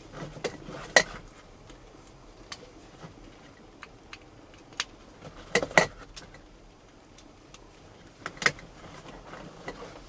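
Scattered sharp clicks and knocks of hard objects being handled, the loudest about a second in, a cluster near six seconds and another a little past eight seconds.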